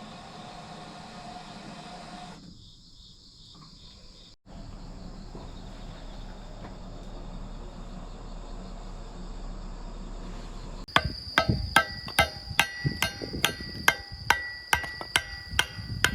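Steady outdoor background hiss, broken by a couple of abrupt cuts. Then, about eleven seconds in, a hammer starts striking a metal tent peg about twice a second, each blow sharp and ringing.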